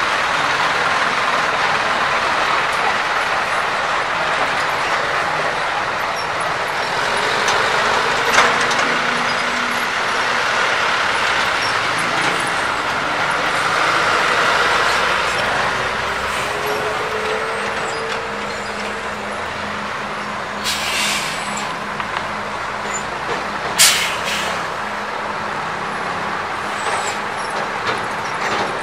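Heavy trucks running slowly over a potholed road, engines working steadily, with two short hissing bursts in the latter part.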